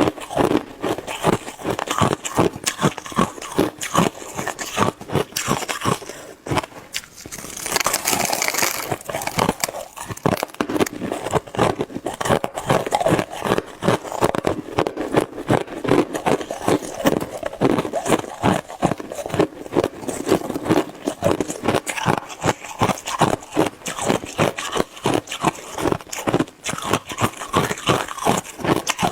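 Close-miked crunching and chewing of shaved ice: rapid crisp crunches, several a second, with a longer, hissier crunch about eight seconds in.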